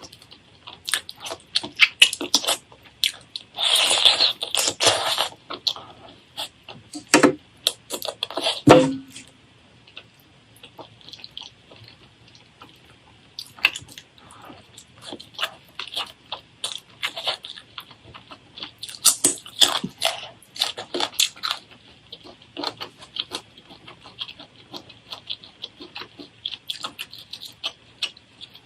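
Close-miked eating: irregular crunching and wet chewing clicks, busier in the first third and again past the middle.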